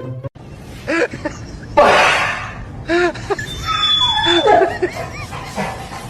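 A string of short vocal sounds, each rising and falling in pitch, with a loud noisy burst about two seconds in.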